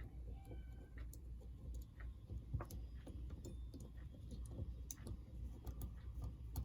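Faint, irregular light clicks and taps of small parts being handled and fitted while reassembling a model train locomotive, over a low steady hum.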